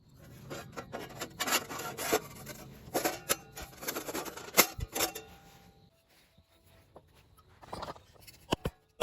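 Irregular scraping and rubbing with sharp knocks, the sound of fire pit parts being handled and set up. The scraping is busiest in the first five seconds, with one heavier knock near the middle, then it thins out to a single short scrape near the end.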